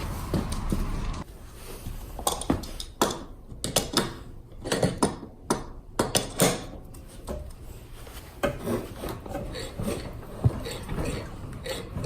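Metal tools clinking and knocking against metal parts in a string of sharp clicks and taps, loudest in the first half, then lighter tapping.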